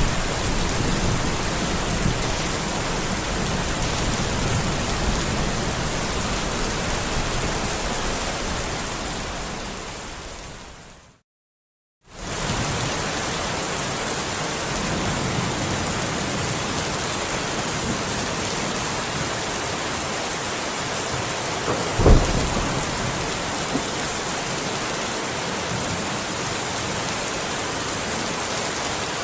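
Steady heavy rain with low thunder rumbling underneath. The rain fades out to a moment of silence about eleven seconds in and then starts again abruptly, like a looped track restarting. A single sharp thunderclap comes about two-thirds of the way through and is the loudest sound.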